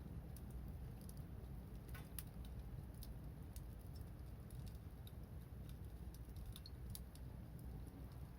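Wood fire crackling: scattered small pops and snaps at irregular intervals over a low steady rumble.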